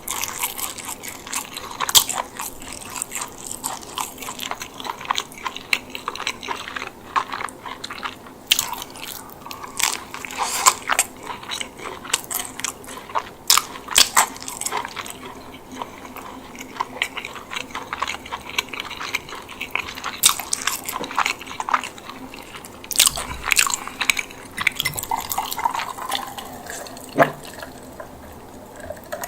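Close-miked eating of a chicken bake: bites into the baked bread crust and chewing, with irregular crisp crunches and crackles that thin out for a while midway and again near the end.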